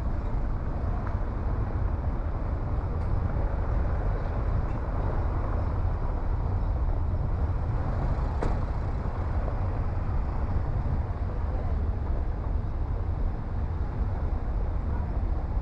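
A car driving, with a steady low rumble of engine and tyre noise on the road. One short click comes about halfway through.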